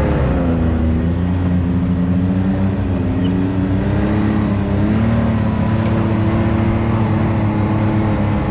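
Off-road vehicle engine running under load on a rocky trail. The revs drop in the first second, then hold low and steady, rising briefly and easing off again midway.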